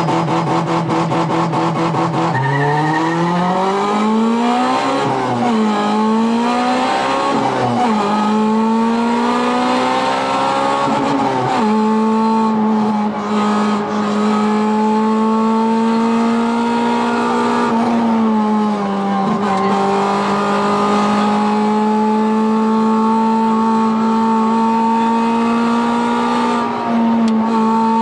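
Rally car engine heard from inside the cabin, launched hard from the stage start and accelerating up through the gears, the pitch climbing and dropping back at each quick upshift. It is then held at high revs along the road, easing briefly twice.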